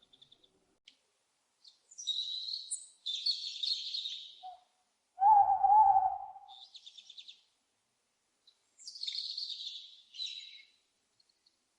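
Owls calling: two long, hoarse, high-pitched screeches, about two and nine seconds in. Between them, about five seconds in, comes a single louder, lower call with a wavering pitch.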